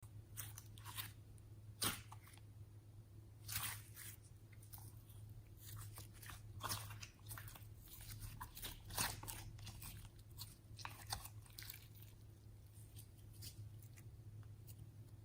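Slime being handled and mixed: irregular sticky clicks and pops, a few louder than the rest, over a faint steady hum.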